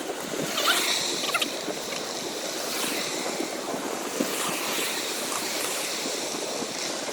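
Steady rushing noise of moving air on the microphone of a bicycle rider riding along a street.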